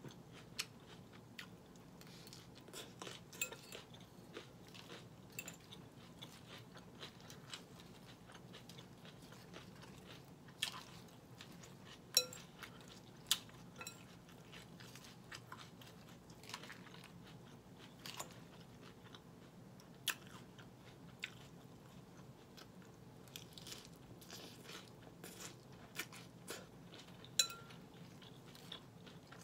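Close-up crunching and chewing of mouthfuls of Caesar salad (romaine lettuce and red onion), with scattered sharp clicks of a metal fork against the glass salad bowl.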